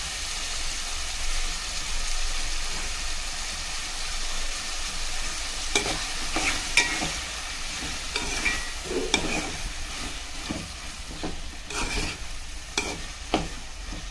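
Chopped tomatoes, onions and green chillies sizzling in hot oil in a metal pot. From about six seconds in, a metal spoon stirs the curry, scraping and clinking against the pot in short strokes.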